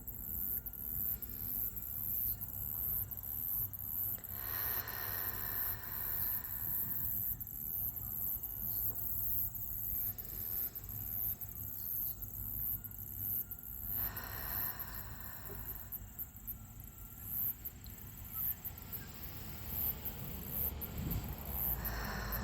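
Outdoor insects chirping steadily in a high, rapid pulsing chorus, over a soft rushing hiss that swells up twice, about four seconds in and again about fourteen seconds in.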